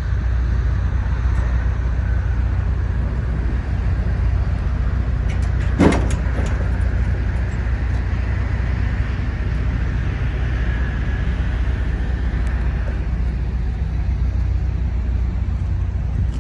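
Steady low rumble of an idling engine, with one sharp knock or clunk about six seconds in.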